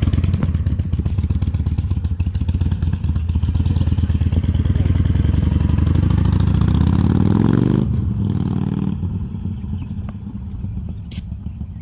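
Harley-Davidson Iron 883's air-cooled V-twin engine running loud and uneven. About halfway through the revs climb in a rising pitch, then drop off sharply just before the last third. The sound then gets steadily quieter.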